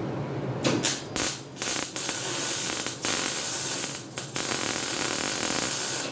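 Welding arc hissing and crackling in several short runs with brief gaps, starting about a second in and cutting off suddenly at the end.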